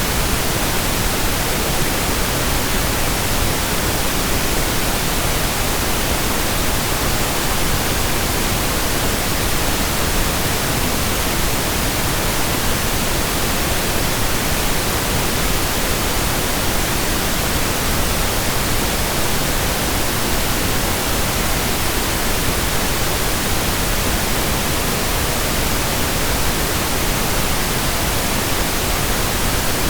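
Steady, unchanging pink noise: an even hiss across all pitches with a fuller low end than white noise.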